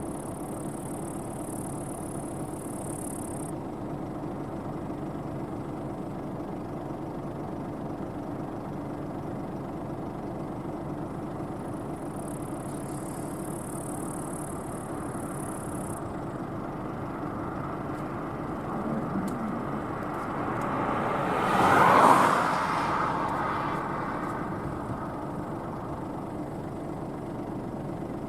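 New Holland CX8.90 combine harvester running steadily with a constant machine hum. About three quarters of the way in it grows louder for a few seconds, then falls back.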